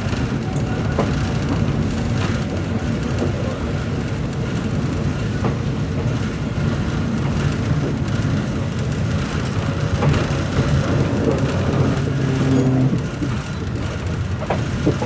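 Passenger train running, heard from on board: a steady rumble of the carriage on the rails, with a few faint clicks.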